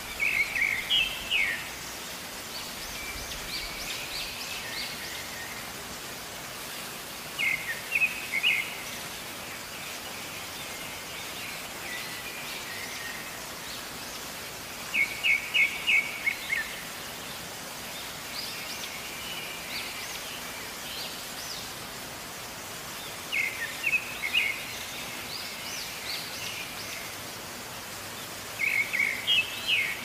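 Bird song: a short phrase of several quick notes, repeated about every seven to eight seconds, with fainter chirps in between, over a steady background hiss.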